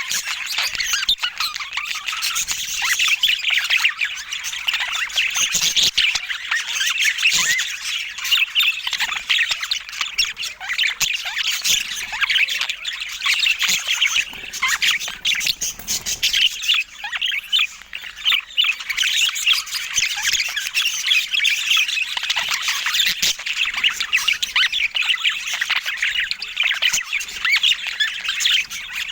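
Budgerigars (budgies) chirping, chattering and squawking without a break, many short calls overlapping.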